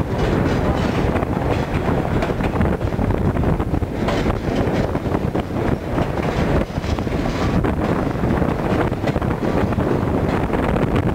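Train riding along the track, heard from an open window of a moving car: a steady running noise of wheels on rail with scattered clicks over the joints, and wind buffeting the microphone.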